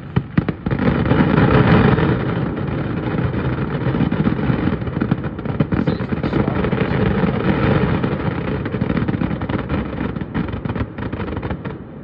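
Aerial fireworks going off in a rapid, unbroken barrage of booms and crackles, after a few separate bangs in the first second. The barrage drops away near the end.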